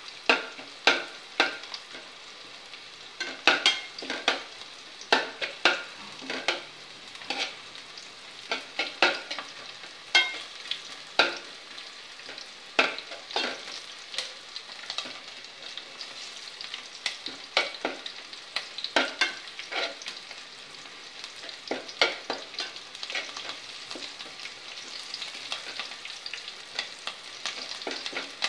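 Sliced onions and green chillies with herbs sizzling in oil in a metal pot, frying toward brown, while a spatula repeatedly scrapes and clinks against the pot as they are stirred, in irregular spells.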